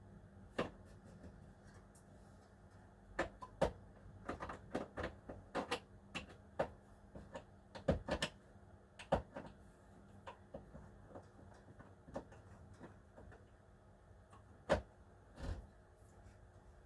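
Irregular clicks and light knocks of plastic slot car pit wall pieces being handled and fitted back onto the track, coming thickest in the middle with a few stray knocks near the end.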